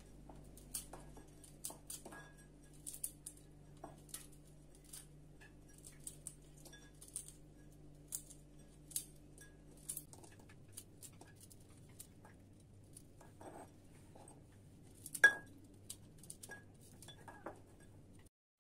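Light clinks and taps of kitchen utensils against glass and dishes, scattered through, with one louder ringing clink about fifteen seconds in.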